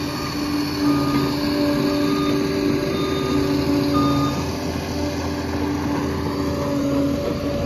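Liebherr 746 crawler bulldozer at work: its diesel engine runs steadily, with whining tones that come and go every second or so.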